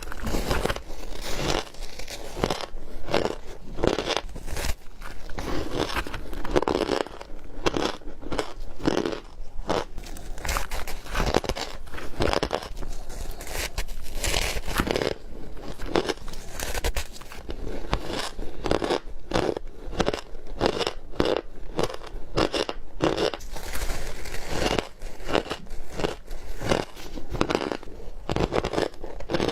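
Squeak ice being bitten and chewed close to the microphone: a dense, unbroken run of crunches.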